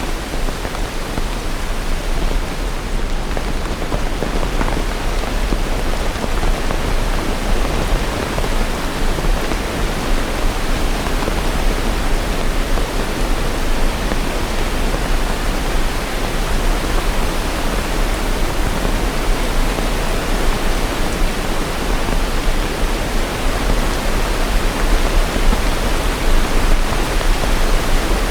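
Steady heavy rain, a dense, even hiss of countless drops with no single drops or thunder standing out.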